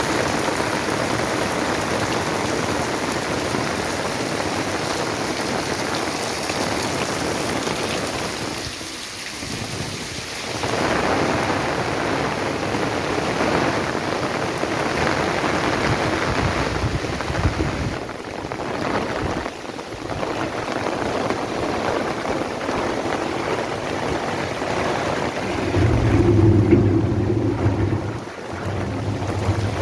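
Heavy rain pouring down in a thunderstorm, a dense steady hiss, with a louder low rumble near the end.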